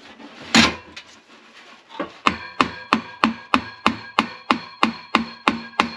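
Light metallic taps on the furnace blower motor's shaft, trying to drive it out of the squirrel-cage fan hub. There is a single knock, then a steady run of about three taps a second, each ringing briefly.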